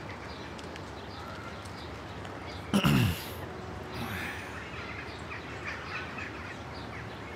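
Birds chirping over steady park background noise, with a brief human voice sound falling in pitch about three seconds in.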